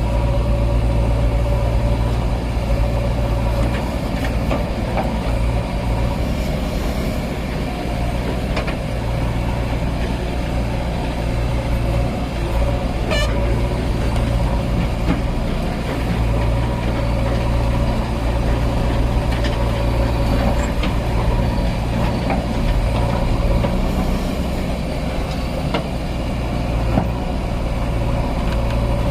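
Heavy diesel engine running steadily at a low, even speed, with a few faint clanks.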